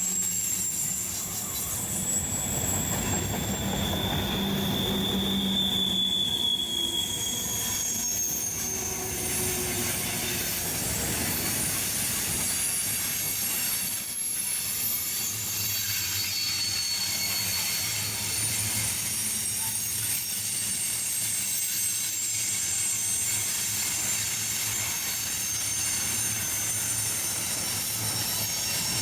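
Train rolling past with its wheels squealing against the rails: long, high-pitched squeals that slide in pitch over a steady low rumble.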